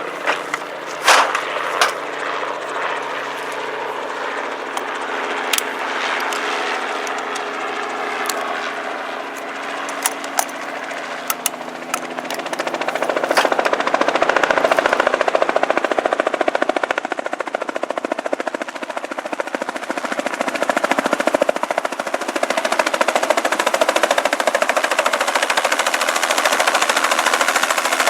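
Helicopter running, with scattered sharp clicks early on; about halfway through, the rapid pulsing beat of the rotor grows louder and holds steady.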